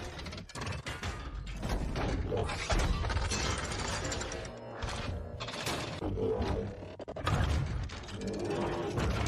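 Sound-design effects of a machine transforming: a fast, irregular run of metallic clanks, ratcheting clicks and whirring gears, layered over music.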